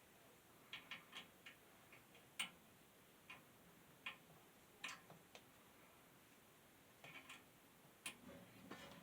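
Faint, irregular clicks and taps of hands working on box fan parts, about a dozen, the sharpest about two and a half seconds in and another near the end.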